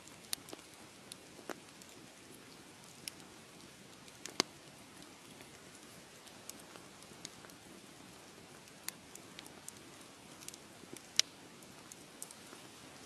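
Wood fire crackling: a steady low hiss of burning with irregular sharp pops and snaps scattered through it. The loudest pops come about four seconds in and again near eleven seconds.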